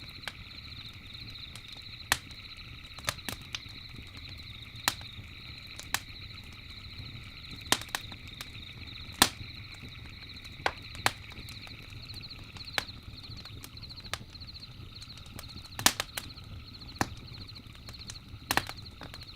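Crackling wood campfire: sharp pops and snaps at irregular intervals, some much louder than others, over a low steady rumble of the burning fire. A steady high chirring of night insects runs behind it.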